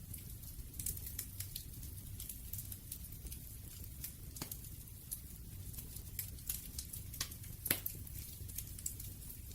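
Wood fire crackling: irregular small pops and snaps over a low steady rumble, with a louder snap about three-quarters of the way through.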